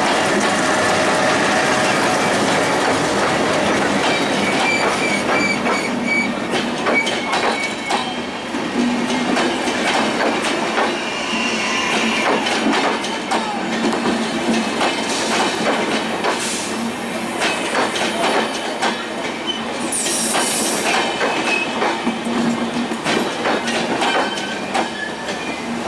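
Passenger coaches of a diesel-hauled express train rolling past as it slows into a station. Wheels click over the rail joints with intermittent thin wheel squeal, and there is a brief hiss about twenty seconds in.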